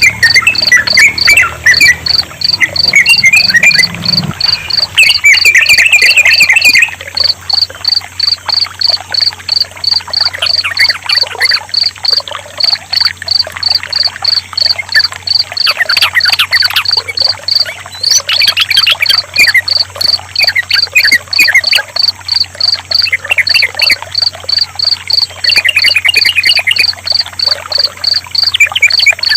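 Sooty-headed bulbul song, short chattering phrases repeated every few seconds, over a steady fast pulsing of cricket chirps and trickling water.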